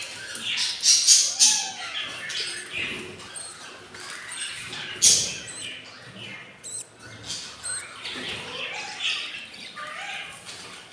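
Budgies squawking and chattering in quick, irregular calls, with a few sharp loud squawks, the loudest about five seconds in.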